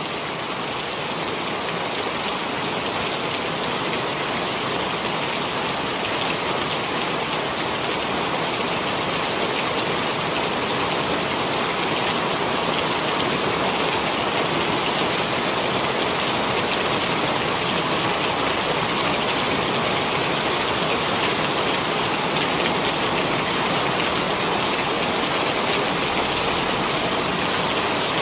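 Heavy rain pouring steadily, a dense, even hiss of drops hitting surfaces.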